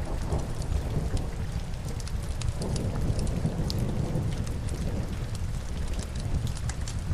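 Steady rain ambience over a deep low rumble that swells about two and a half seconds in. Scattered sharp crackles throughout, as of burning logs in a fireplace.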